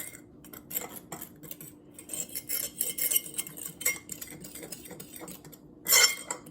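A utensil stirring and scraping dry brownie ingredients in a mixing bowl, with repeated small clinks against the bowl and a louder clatter near the end.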